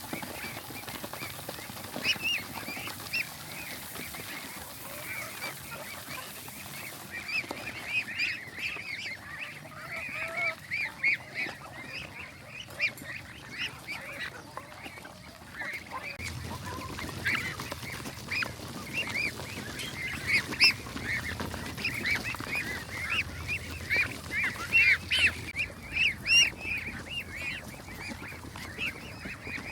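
A flock of farm fowl calling: many short, overlapping calls, growing busier and louder in the second half.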